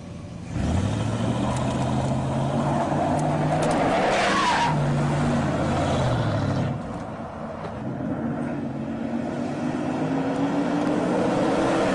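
Car engine starting off hard and accelerating, its pitch climbing and stepping as it goes through the gears, with a short screeching noise about four seconds in. The engine eases off a little near seven seconds, then builds again with a steadily rising pitch.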